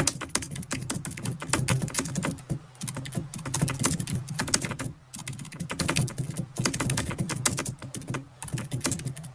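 Rapid, irregular clicking and tapping, several sharp clicks a second, with brief pauses about a third of the way in, halfway and near the end.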